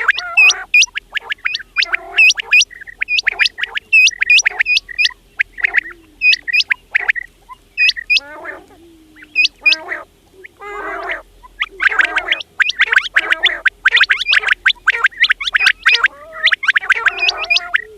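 Quails calling: a rapid series of short, sharp, high chirps mixed with lower, rougher churring notes. The high chirps thin out for a few seconds in the middle, leaving mostly the rough notes, then come back thick near the end.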